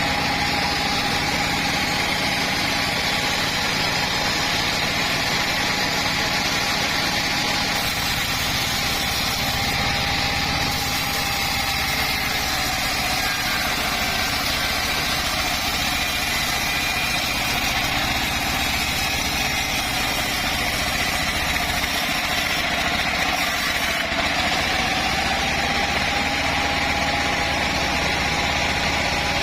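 Home-built sawmill bandsaw running steadily, with a steady whine that sags a little in the middle and climbs back near the end.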